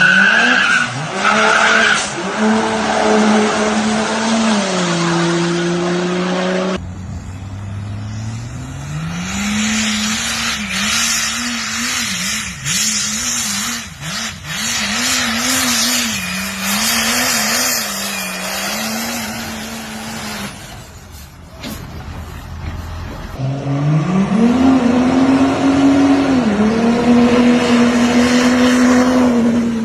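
Engine of a 2000 hp Dodge Ram dually truck running at full throttle in three separate runs. Each time the revs climb quickly and then hold, with a step down in pitch in the first run and a wavering pitch in the middle run, over a steady hiss.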